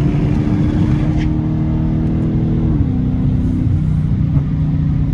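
Exhaust of a Dodge Challenger R/T's straight-piped Hemi V8, running deep and steady under light throttle while driving. The engine note dips slightly a little under three seconds in.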